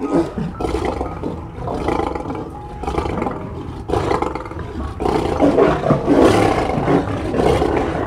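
Lions roaring: a continuous, rough run of big-cat calls that grows louder about five seconds in.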